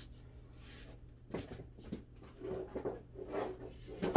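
Objects being handled and moved on a worktable: scattered soft knocks and rustles, then a sharp knock near the end.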